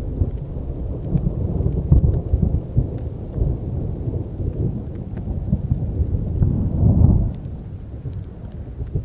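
Thunder rumbling in long low rolls, swelling again about seven seconds in and then dying down, with rain falling.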